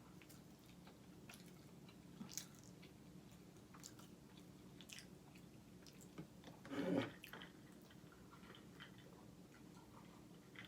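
Quiet chewing and small, wet mouth clicks of a person eating potato and peas, with one brief, louder mouth sound about seven seconds in.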